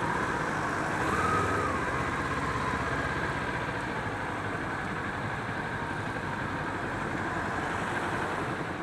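Kawasaki Ninja 400 parallel-twin engine running under way, mixed with wind rush and surrounding traffic noise, heard from the rider's camera. A pitched tone rises and falls once about a second in, then holds steady.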